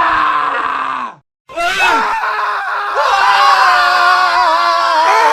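Several men screaming at once in long, overlapping held screams. The sound cuts off dead a little over a second in, then a fresh layer of screams starts.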